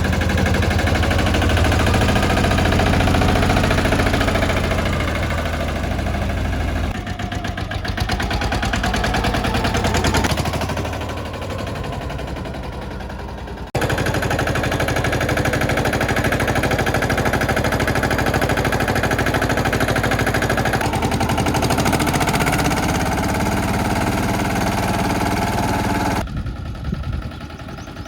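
Escort Steeltrac 15 mini tractor's diesel engine running, with a fast, even firing putter. The sound breaks off abruptly about halfway through and resumes at once.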